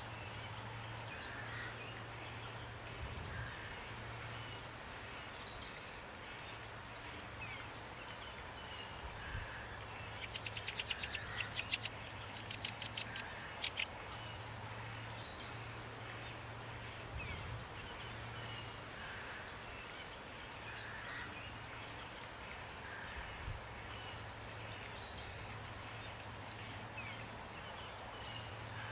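Songbirds chirping and whistling over a steady hiss of rain. About ten seconds in, a fast rattling trill of rapid notes runs for roughly four seconds and is the loudest sound.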